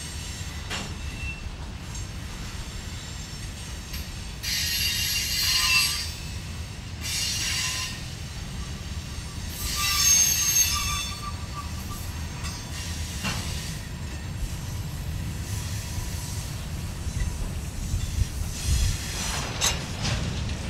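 Freight cars, mostly covered hoppers, rolling past with a steady low rumble of wheels on rail. Three bursts of high-pitched wheel squeal come about 4, 7 and 10 seconds in, and a few sharp clacks follow later on.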